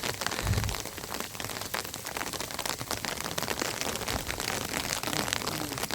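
Steady rain falling, a dense patter of individual drops, with a brief low thump about half a second in.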